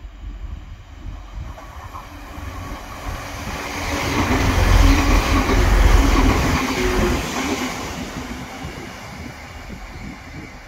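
Passenger multiple-unit train passing through a station at speed: the rumble and wheel clatter build up, peak about five to six seconds in as it goes by close at hand, then fade as it moves away.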